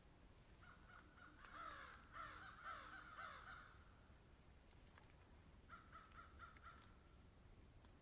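Birds calling faintly: a quick run of short, rapidly repeated notes from about a second in to past three seconds, and a second, briefer run around six seconds. A faint steady high-pitched hum runs underneath.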